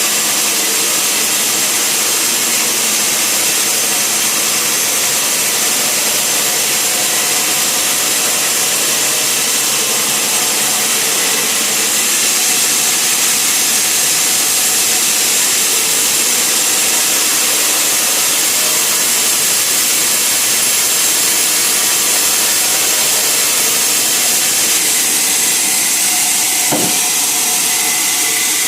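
Sawmill machinery running, a loud, steady, even noise with a strong high hiss.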